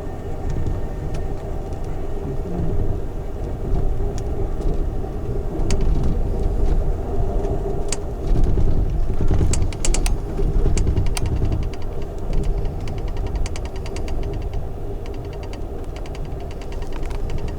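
Amtrak Southwest Chief passenger train rolling along, heard from on board: a steady low rumble and hum, with sharp clicks and rattles coming in quick regular runs through the second half.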